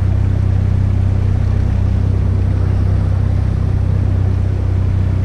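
Outboard motor of a small fishing boat running steadily underway, a constant low drone.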